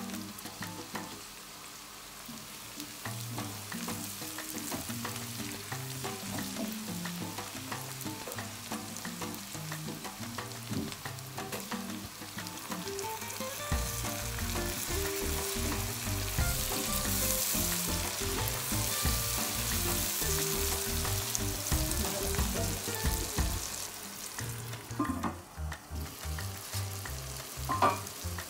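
Sliced onions, pepper and whole spices sizzling in hot oil in a cooking pot. About halfway through, chopped tomatoes are tipped in and the sizzling grows louder.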